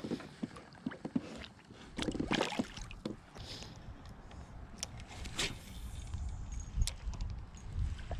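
Handling noise in a small fishing boat on the water: scattered clicks and knocks, a few short rustling washes, and a low rumble of wind on the microphone from about two seconds in.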